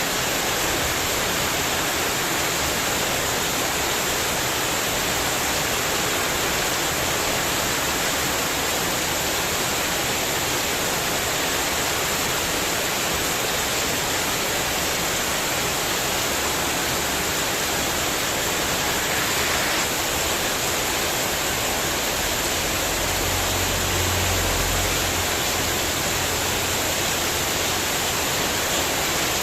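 Heavy rain pouring steadily onto a spandek metal-sheet porch roof, a dense, even hiss. About 23 seconds in, a brief low rumble rises under the rain.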